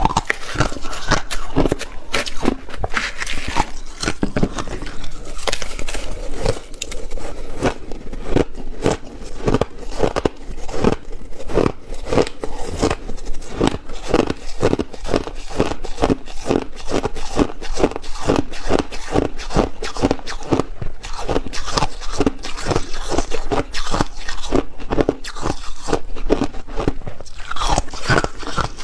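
A person biting and chewing ice: a steady, rapid run of crunches, several a second.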